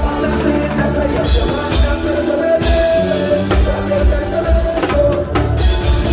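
A live band playing: drum kit and bass line keeping a steady beat, with long held melody notes over the top.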